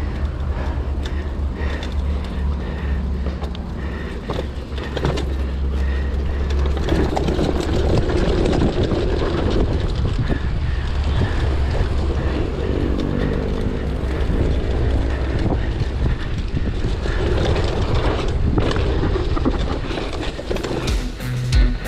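Mountain bike running down a wet dirt trail: steady wind rumble on the microphone, tyre noise and the bike rattling and knocking over bumps.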